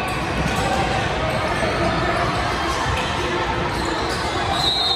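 Basketball being dribbled on a gym court, with voices around it and a high, steady squeal coming in near the end.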